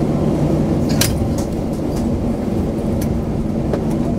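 Airbus A321 cabin noise while the aircraft rolls on the ground after landing: a steady low rumble of the engines and wheels, with a few brief clicks and rattles from the cabin.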